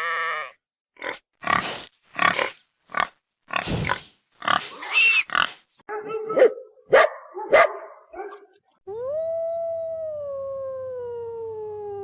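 A sequence of animal calls: a run of short squeals and grunts over the first several seconds, then from about nine seconds in one long howl that slowly falls in pitch.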